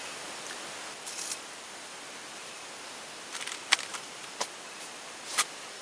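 Steady hiss of rain falling on a tent, with scattered sharp ticks and taps: a few about a second in and several more in the second half.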